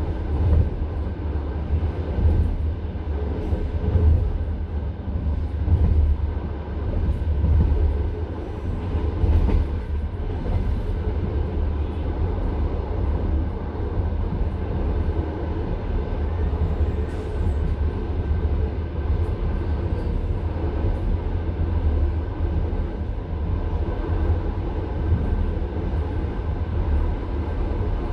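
Passenger railway carriage running along the track, with a heavy low rumble and the clatter of its wheels. The sound swells and eases several times over the first eight seconds or so, then runs more steadily.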